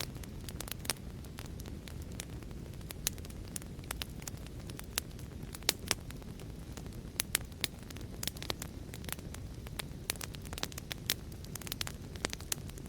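Wood fire crackling: a steady low rumble of flames with many sharp, irregular pops and snaps.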